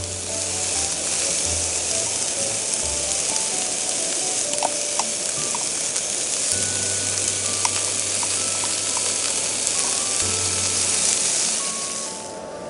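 Shrimp and tomatoes frying in a pan: a loud, steady sizzle that fades out near the end.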